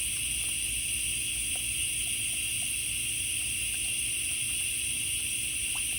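A steady hiss with a low hum underneath, unchanging throughout, with no distinct event.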